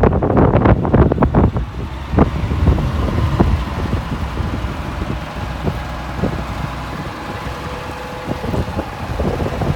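1989 Peterbilt 375 truck's diesel engine running, with wind buffeting the microphone, heaviest in the first couple of seconds and again near the end.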